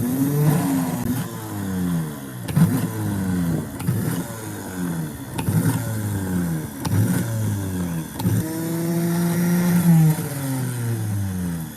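A restored ship engine electric starter motor being test-run in short bursts. Each burst starts with a click, and the motor whines up and then winds down, falling in pitch. Near the end it is held running for about a second and a half before spinning down.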